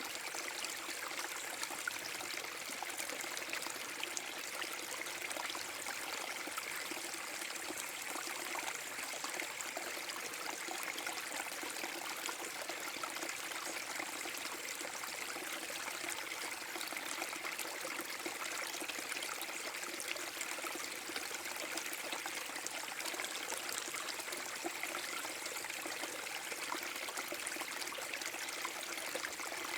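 Small waterfall on a forest brook: water spilling and splashing into the stream below in a steady, unbroken rush.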